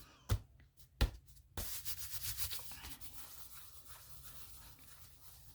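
A few light taps, then a scratchy rubbing over paper that keeps going in uneven strokes, like a brush or hand working across collage paper on a canvas.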